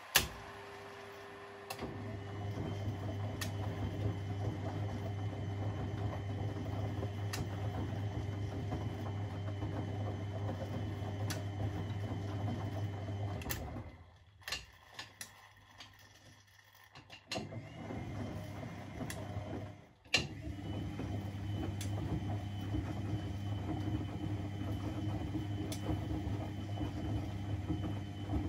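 Privileg 3001 S washing machine's motor turning the drum with a steady hum, stopping for about six seconds in the middle and then starting again after a sharp click, as in a wash cycle's stop-start drum rhythm. A click is also heard near the start.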